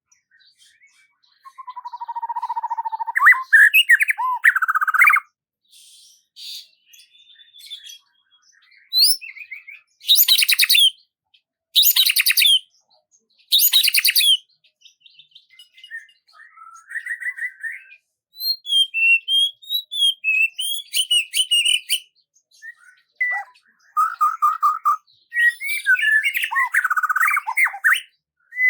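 Birdsong: a series of separate chirps, warbles and whistled phrases with short gaps between them, including three loud sharp calls about two seconds apart midway, and busier warbling near the end.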